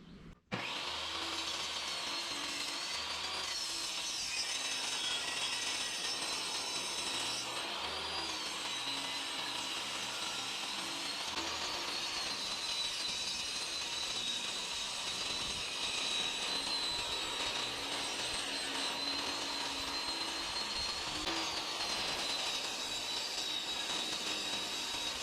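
An electric power tool working wood, running continuously with a steady whine that wavers slightly in pitch as it cuts. It starts abruptly about half a second in.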